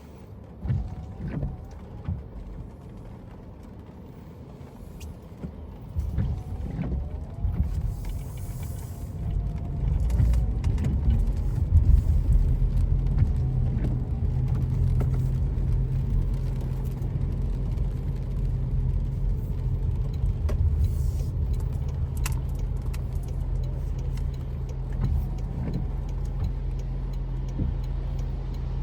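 A car's low, steady engine and road rumble. It builds from about six seconds in and holds after about ten, following a quieter start with a few scattered clicks and knocks.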